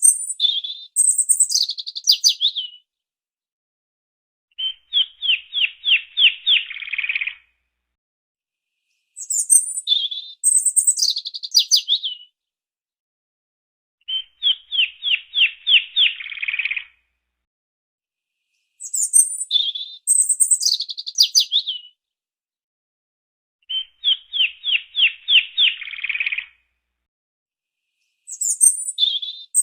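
A songbird singing: a quick run of high, falling whistled notes, then a few seconds later a fast, even trill. The same pair of phrases repeats identically every nine to ten seconds, with dead silence between.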